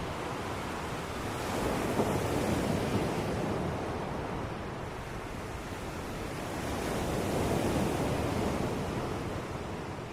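Ocean surf washing in, a steady rush that swells twice as waves break, about five seconds apart.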